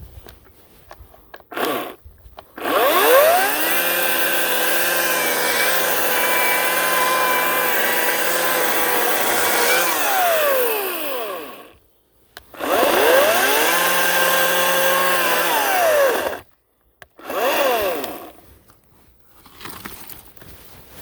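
Ryobi 18-inch battery-powered electric chainsaw running in bursts. After a short blip, the motor spins up with a rising whine, runs at a steady pitch for about seven seconds and winds down. It then runs again for about four seconds and gives one last brief blip.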